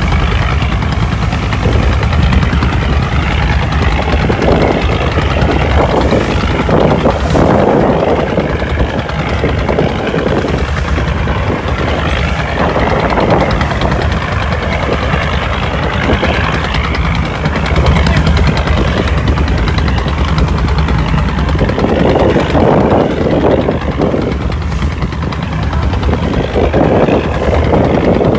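A boat engine running steadily with a constant low drone, with uneven swells of rushing noise over it.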